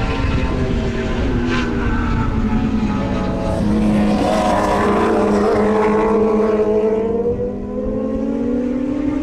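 Superbike racing motorcycle engines running hard together, their pitch dipping and then climbing again as the bikes brake and accelerate.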